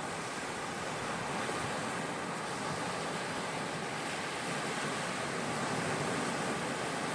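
Sea surf washing onto a beach: a steady, even rush of water noise with no separate breaks standing out.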